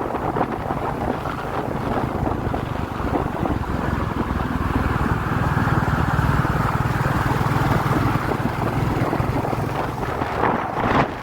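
Royal Enfield Classic 350's single-cylinder engine running steadily while riding, with wind buffeting the microphone.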